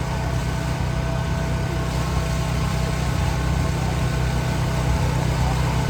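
Engine running steadily at idle: an even low hum with a faint steady whine above it.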